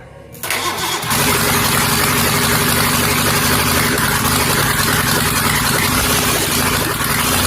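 Ford Essex V6 engine, woken after sitting about twenty years, catching suddenly about half a second in and then running loud and steady.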